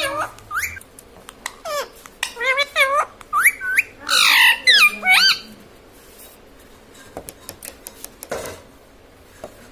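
Ring-necked parakeet calling: a run of quick up-and-down whistled chirps with a loud, harsh squawk about four seconds in, then a quieter stretch with a few soft clicks.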